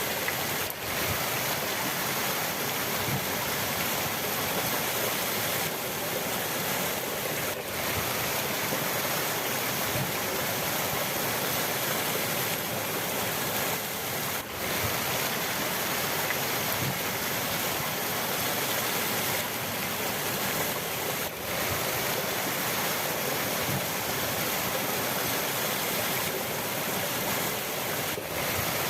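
River water rushing steadily, an even unbroken wash of flowing water.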